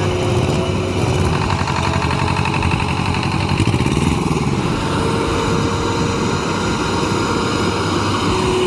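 Heavy truck's diesel engine running steadily under load, its pitch shifting slightly about halfway through.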